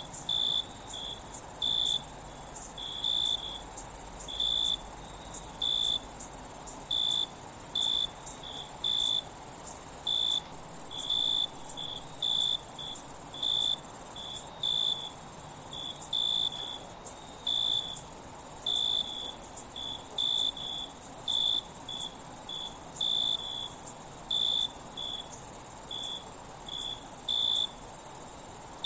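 Night insect chorus: a steady high-pitched insect trill, with a cricket chirping in short pulses about one and a half times a second.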